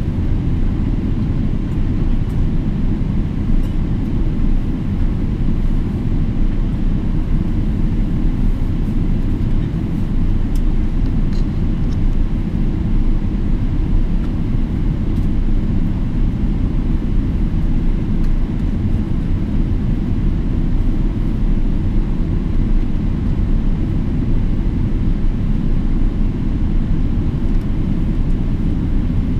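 Steady, unchanging low rumble of a Boeing 777-300ER in flight: its GE90-115B engines and airflow.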